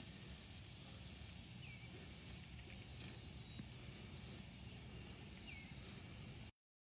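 Quiet rural pasture ambience: a steady low rumble with a faint high hiss and three short, faint bird chirps. The sound cuts out to dead silence for a moment near the end.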